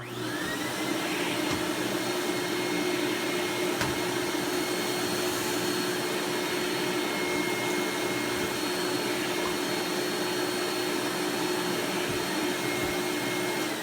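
Eureka Mighty Mite II 7-amp canister vacuum switched on, its motor whine rising as it spins up, then running steadily with a few light knocks, and starting to wind down at the very end.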